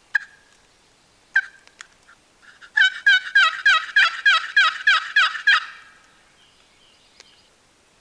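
Turkey call being run in a series of about eleven loud yelps, each note dropping in pitch, preceded by a couple of single notes, used to make the gobbler respond and give away his position.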